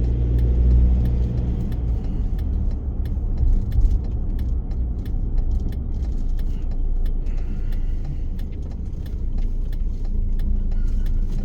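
Car on the move heard from inside the cabin: a steady low rumble of engine and road noise, with faint scattered ticks and rattles.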